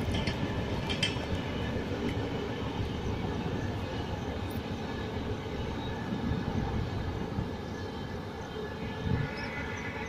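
Long passenger train running along the track, a steady rumble of wheels on rail with a couple of sharp clicks about a second in, slowly fading as it draws away.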